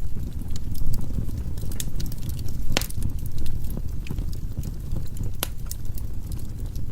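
Firewood burning in a fireplace: a steady low rumble of flames with irregular sharp crackles and pops from the logs, one louder pop about three seconds in.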